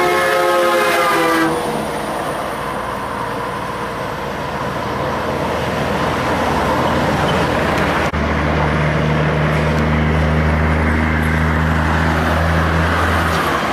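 Heavy truck air horn sounding a short chord that ends about a second and a half in, then steady noise from truck traffic. After a sudden break near the middle, a big diesel truck engine drones low and steady.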